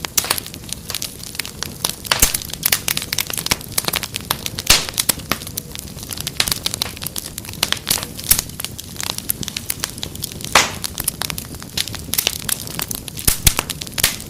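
Fireplace fire crackling: dense, irregular pops and snaps over a steady low hiss, with a few sharper, louder pops here and there.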